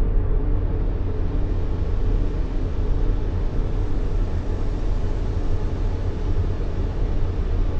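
Steady white-noise track for soothing a baby: an even, deep rushing hiss, heaviest in the bass, with no change over its length.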